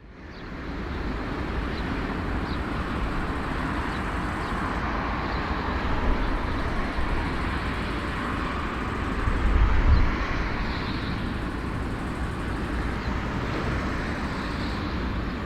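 Aircraft engines running, a steady rumbling noise with a heavy low end that fades in at the start and swells briefly about ten seconds in.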